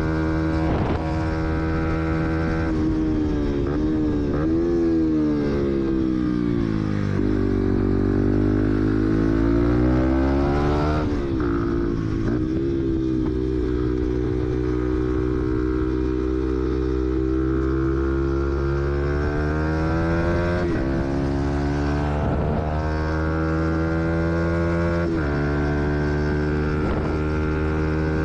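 Fantic XMF 125's four-stroke single-cylinder engine running under way as the motard is ridden. The engine note climbs and drops several times with throttle and revs, and runs steady in between.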